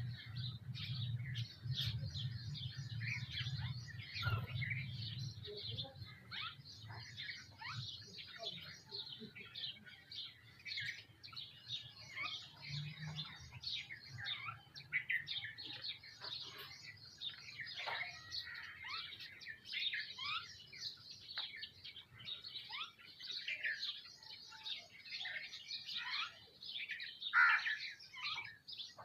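A flock of birds feeding, sparrows among them, chirping continuously in dense, overlapping calls. A low rumble sits under the chirping for the first few seconds.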